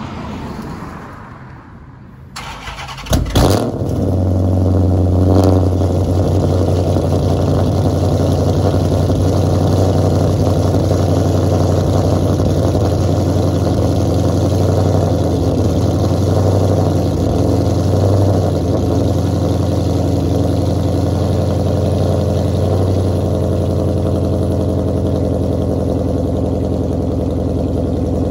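Straight-piped 5.7-litre Hemi V8 of a 2012 Dodge Charger R/T cold-starting: the starter cranks briefly about two to three seconds in, the engine catches with a loud flare, then settles into a steady, fast cold idle whose pitch steps down slightly near the end.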